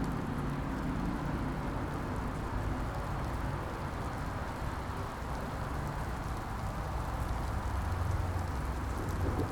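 Steady rain with low city traffic rumble underneath, a continuous rainy street ambience.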